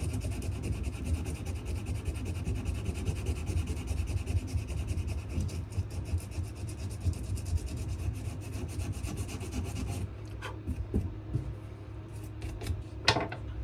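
Sandpaper rubbed back and forth in quick, even strokes on a wenge and maple knife handle. The sanding stops about ten seconds in, followed by a few light knocks and one louder knock near the end.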